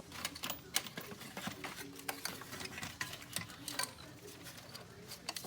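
Irregular light clicks and taps, several a second, over a faint low hum.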